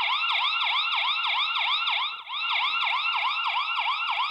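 XTU J10 Plus video doorbell's built-in alarm siren sounding: a fast electronic yelp of rising sweeps, about four a second, with a brief break about two seconds in.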